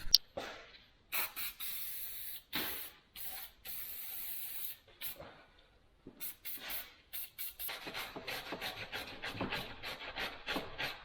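An aerosol spray can hisses in several bursts of about half a second to a second over the first five seconds, cleaning the vise parts. From about six seconds in, a brush scrubs the metal in quick, repeated back-and-forth strokes.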